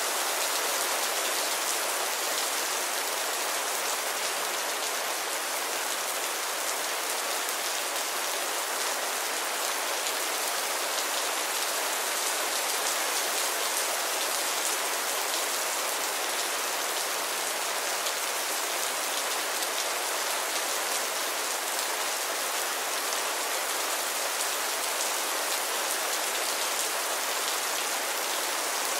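Heavy rain falling steadily: a dense, even hiss of countless drops that stays unchanged.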